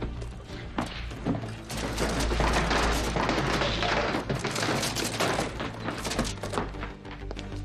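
Dramatic film score over a steady low rumble, with a run of sharp percussive hits in the first second or so.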